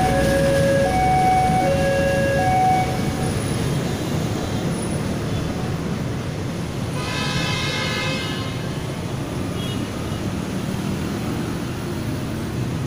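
A passenger train running past and drawing away, its rumble dropping off about three seconds in and carrying on lower. A loud two-note tone alternates about once a second at the start, and a horn sounds once for just over a second about seven seconds in.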